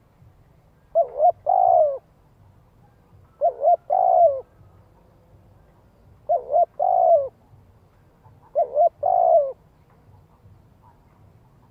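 Spotted dove cooing: four calls, each of two short notes followed by a longer one, repeating about every two and a half seconds.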